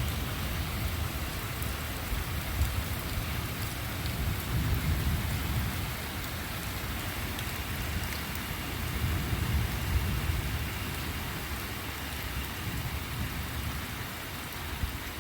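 Steady rain falling during a thunderstorm, with distant thunder rolling in low rumbling swells a few seconds in and again near the middle.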